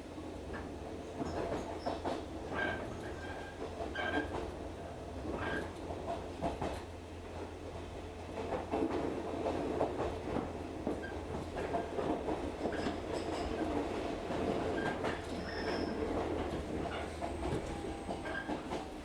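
Electric train in motion, heard from on board: steady running rumble and low hum, with the wheels clicking over rail joints about every second or so and short high squeals of the wheels.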